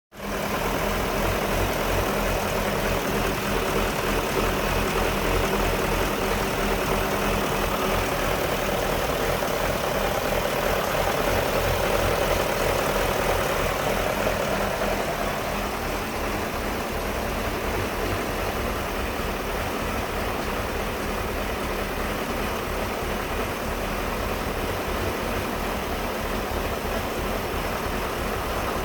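1999 BMW 540i's 4.4-litre V8 idling roughly, the fault being recorded for diagnosis. It runs steadily and turns a little quieter about halfway through.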